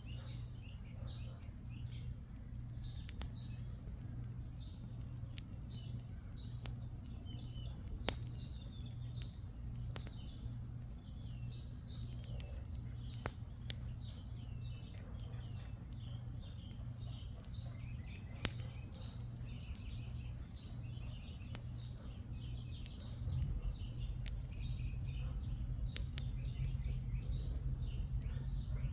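Birds chirping continually, with a few sharp pops from a crackling wood campfire, the loudest about two-thirds of the way through. A low wind rumble grows stronger near the end.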